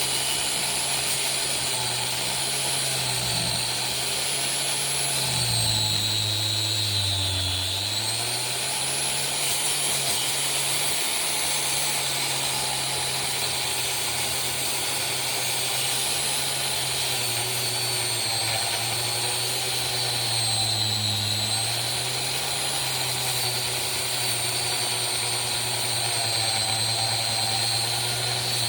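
Angle grinder with a cut-off wheel cutting metal, its steady whine sagging in pitch twice, about six seconds in and again near twenty seconds, as the wheel bogs down in the cut and then recovers.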